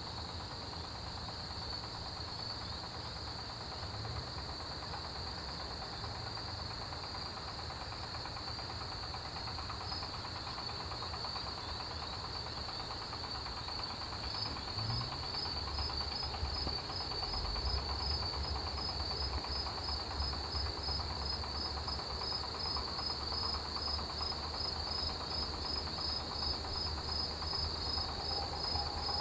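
Autumn grass insects, crickets among them, chirring in a continuous chorus: a steady high trill, with a second insect's evenly pulsing chirps joining about halfway through. A low rumble rises underneath at about the same time.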